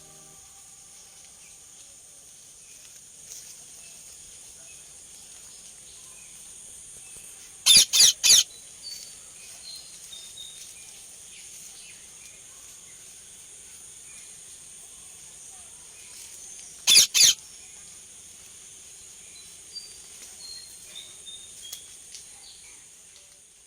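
Parrot screeching: a quick run of three harsh, loud calls, then later a pair of them. Under them runs a steady high-pitched insect drone, with small bird chirps scattered through.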